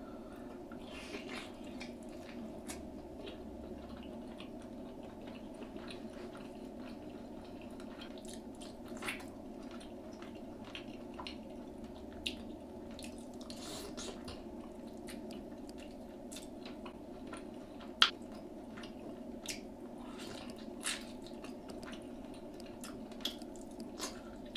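Close-miked mukbang eating: chewing and wet mouth sounds, with scattered short sharp clicks, the loudest about 18 seconds in, over a steady low background hum.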